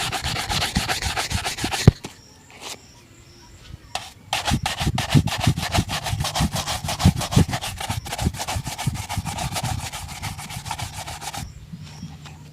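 Shoe brush rubbing briskly back and forth over a leather shoe during a shoe shine, in rapid even strokes. A short burst comes first, then after a pause a longer run of fast strokes that stops shortly before the end.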